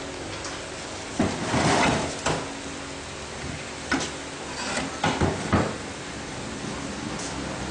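Several short knocks and clunks at irregular intervals over a steady background hum.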